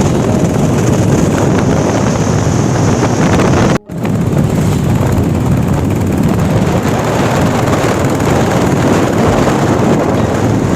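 Wind buffeting the microphone of a moving motorcycle, a steady loud rush with riding noise underneath. The sound drops out for an instant about four seconds in.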